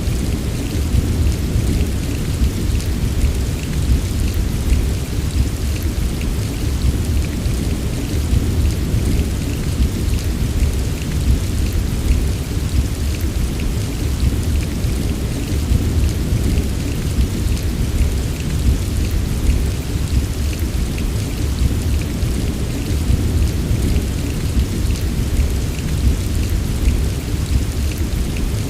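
Heavy rain falling steadily: a dense patter of drops over a constant deep rumble, with no single thunderclap standing out.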